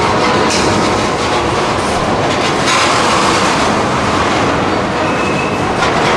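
Railroad cars rolling past close by, the steel wheels clicking over rail joints in a steady clickety-clack. A brief high wheel squeal comes about five seconds in.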